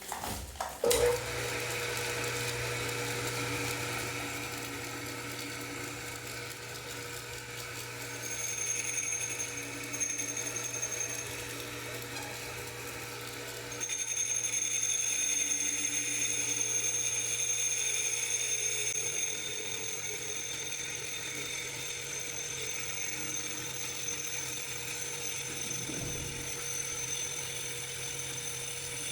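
Homemade lathe switching on with a click about a second in, its motor then running with a steady hum. A high-pitched whine comes in briefly around eight seconds in and again from about fourteen seconds in, holding to the end.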